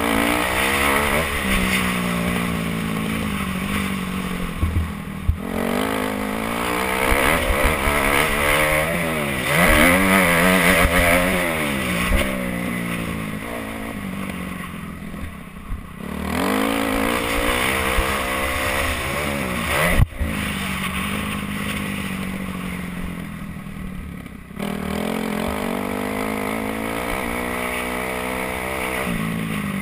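Kawasaki KX250F's four-stroke single-cylinder engine being ridden hard, its pitch repeatedly rising under throttle and falling away as the throttle closes. There is a single sharp knock about two-thirds of the way through.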